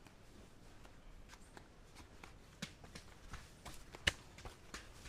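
Quiet, scattered light clicks and knocks of a person moving about, with one sharper click about four seconds in.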